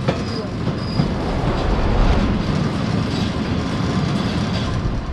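Freight train rolling along: a steady rumble of the wheels and cars, with scattered clicks and a couple of brief high squeals in the first second.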